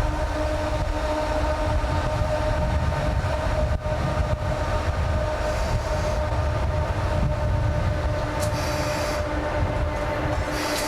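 Freight train being shunted, its locomotive running with a steady hum over a low rumble. Short bursts of hiss come about two thirds of the way in and again near the end.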